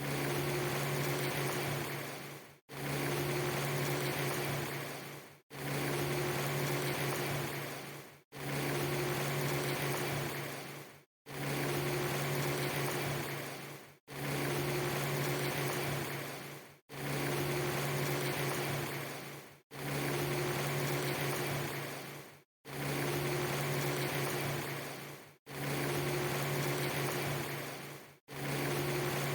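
A short loop of a steady hiss with a low hum underneath, repeating about every three seconds: each repeat fades and drops out to a brief silence before the next starts, about ten times.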